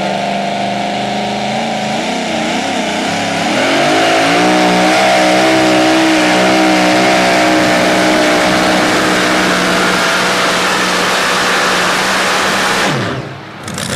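Two-wheel-drive pulling truck's engine at high revs under load during a pull. The engine note wavers at first, then climbs and runs loud and steady from about four seconds in. It cuts off abruptly near the end as the driver lets off.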